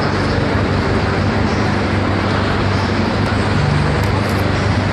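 Benelli 600 inline-four motorcycle engine idling steadily through its exhaust, a constant low drone.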